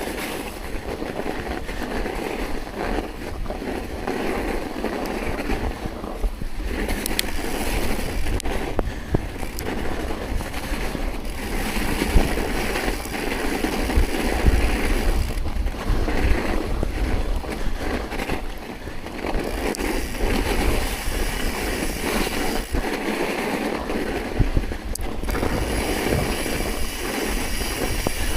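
Tyres rolling steadily over snow-covered ground, with wind buffeting the microphone as it moves.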